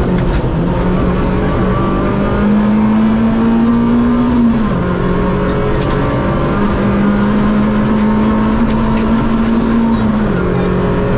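Rally car's engine heard from inside the cockpit, pulling hard, its note climbing slowly and then dropping sharply twice, about four and a half and ten seconds in.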